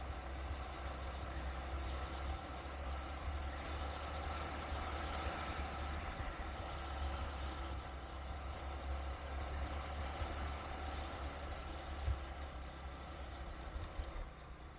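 Steady low rumble of a vehicle on the move: engine and road noise with no break.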